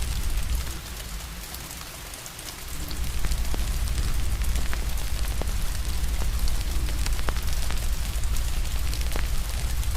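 Steady rain with a crackling fire, sharp pops and snaps scattered through it, over a deep low rumble. The rumble and the overall level drop away about a second in and come back about three seconds in.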